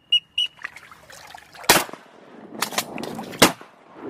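Rapid high whistled peeps, about five a second, stop about half a second in. Then come four sharp cracks, the loudest near the end, with a faint splashy, watery noise between them.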